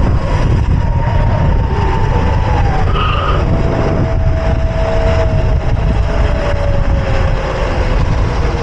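Wind buffeting the microphone on a moving electric mini bike, with a thin motor whine that falls slowly in pitch as the bike eases off.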